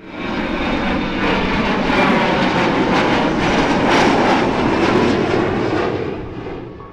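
Airplane sound effect: an aircraft passing by, its engine noise swelling over the first second, loudest in the middle, then fading away near the end.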